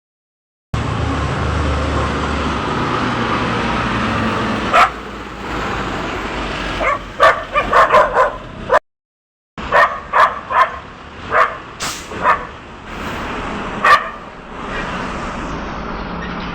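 A dog barking repeatedly in short sharp barks over the steady running of a vehicle engine and road traffic. The engine noise is loudest in the first few seconds. The sound drops out completely for a moment partway through, then the barking resumes.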